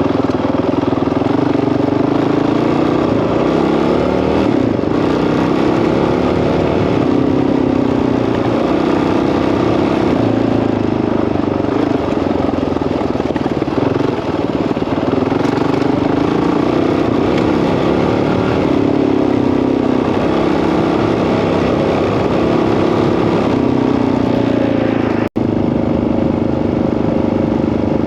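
Honda CRF single-cylinder four-stroke dirt bike engine running under way, its revs rising and falling as it is ridden. The sound cuts out for an instant near the end.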